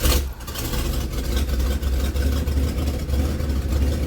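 Chevrolet pickup truck's engine catching with a loud burst right at the start, then idling steadily with a low, even hum.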